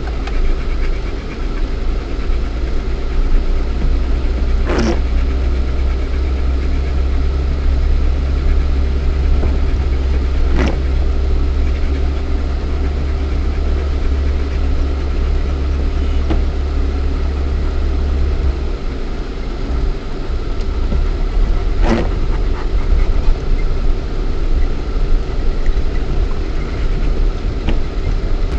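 Lada Niva 1.7i's four-cylinder petrol engine running with a steady low drone, heard inside the cabin as the 4x4 drives off-road. Four sharp knocks stand out, and the low drone shifts a little past halfway.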